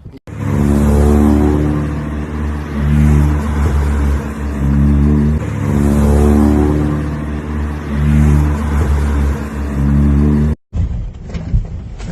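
Car engine revving hard, its pitch climbing and dropping again and again, then cut off suddenly near the end by a noisier recording.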